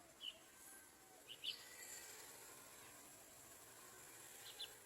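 Faint, short high bird chirps, some in quick pairs, coming three times, over a faint steady high-pitched insect-like hiss.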